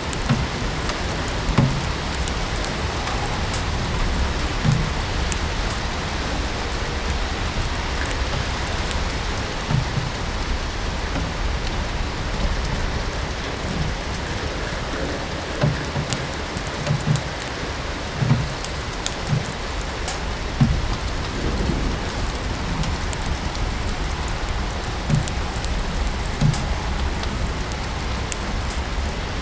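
Steady rain blended with a crackling wood fire: an even hiss of rain with irregular snaps and pops scattered through it.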